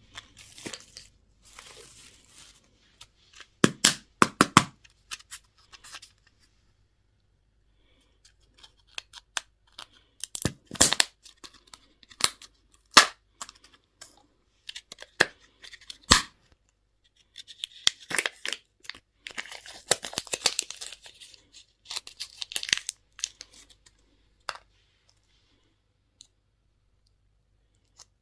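Candy and toy packaging being opened by hand: wrappers tearing and crinkling, with sharp clicks and snaps of plastic between. The crinkling is densest in a stretch a little past the middle.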